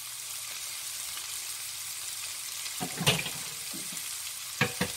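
Diced ham, carrot, onion and bell pepper sizzling steadily in a nonstick frying pan, with a few sharp clacks about three seconds in and again near the end.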